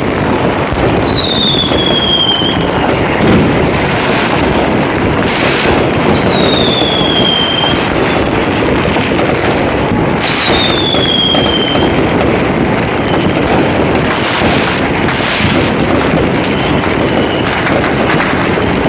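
Dense fireworks: a continuous crackle of many firecracker and rocket bangs, with a few louder bursts. Every few seconds a whistling rocket gives a falling whistle lasting a second or two.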